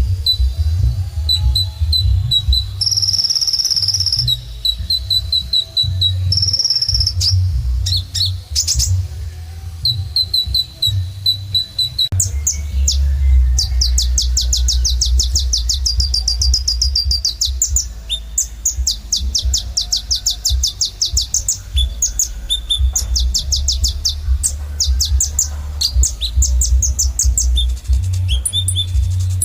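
Kolibri ninja (a small sunbird) singing actively: rapid series of very high chirps and short trills, with a long fast rattling trill about halfway through. A steady low rumble sits beneath the song.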